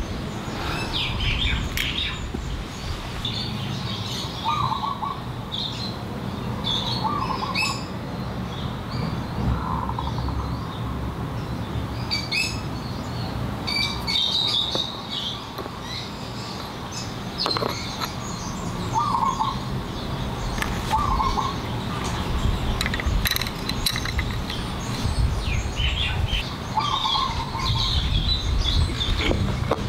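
Birds chirping, one short call repeating every two to three seconds with higher chirps between, over a steady low rumble, with a few sharp clicks.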